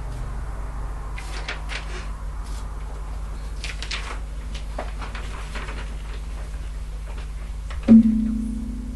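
Scattered small clicks and rustles over a steady low electrical hum. Near the end, a sudden loud low note that rings and fades over about a second.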